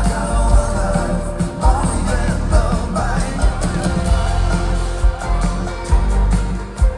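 Folk-rock band playing live: a steady drum beat and heavy bass under guitars and a lead vocal.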